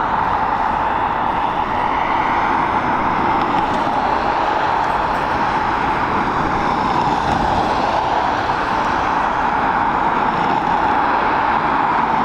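Jet airliner engines, a steady loud noise with a faint turbine whine drifting in pitch.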